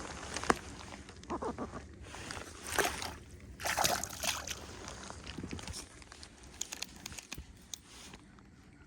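Water sloshing and splashing in a few irregular bursts, the loudest about four seconds in, as a caught largemouth-style bass is handled and let go at the water's surface.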